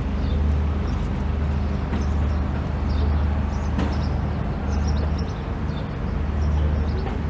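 A vehicle engine drones low and steadily, swelling and easing about every second. A few short high bird chirps sound over it.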